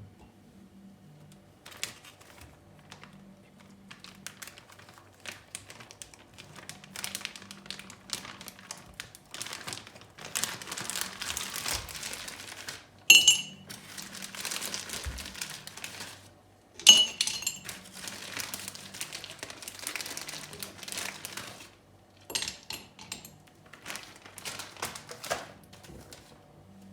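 Hands handling small objects: rustling and crinkling with many small clicks, and two sharp clinks that ring briefly, about four seconds apart.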